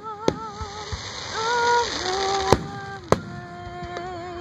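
Fireworks going off, with about three sharp bangs and a brief hissing rush, over music of long held, wavering notes.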